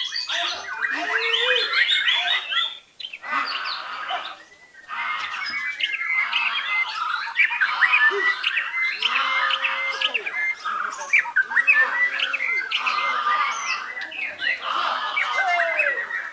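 White-rumped shama (murai batu) singing a long run of rapid, varied phrases, with short breaks about three and about four and a half seconds in.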